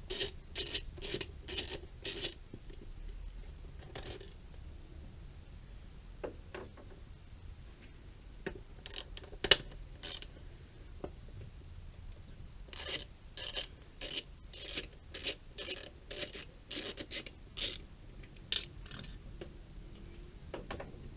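Rasping strokes of a hand tool working on the throttle body's fasteners, in runs of about two to three strokes a second with pauses between the runs.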